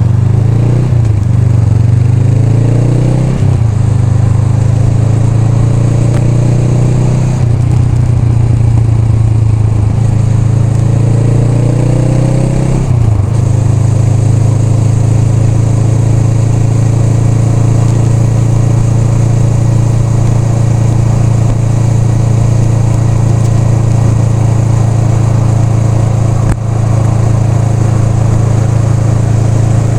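Honda Rebel 500's parallel-twin engine pulling through the gears: the engine note rises and drops back at each upshift several times, then holds steady at a cruise from about thirteen seconds in.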